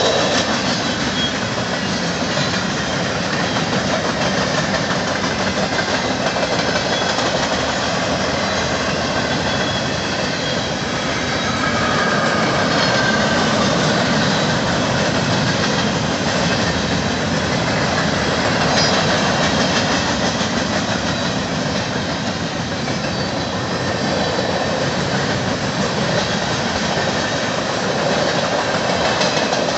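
A mixed freight train's cars (covered hoppers, a centerbeam flatcar, tank cars) rolling past at close range, their steel wheels making a steady clatter on the rails, with a faint wheel squeal about halfway through.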